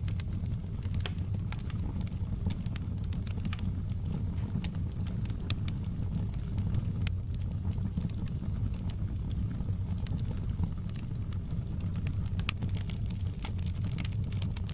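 Crackling fire in a fireplace: a steady low rumble of flames with frequent irregular sharp crackles and pops.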